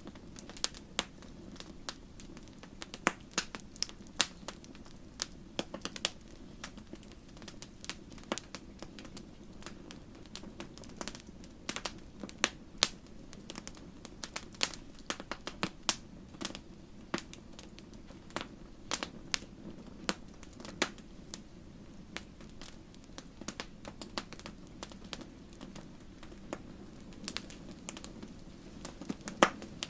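Wood campfire burning, with a steady low rush of flame under frequent irregular sharp crackles and pops.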